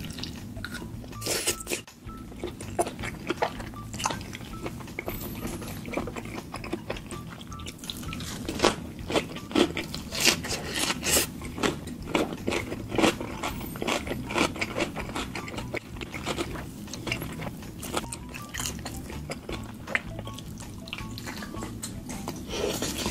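Close-up mukbang eating sounds: irregular crunching, chewing and mouth smacks as sauce-cooked chicken is eaten, over quiet background music.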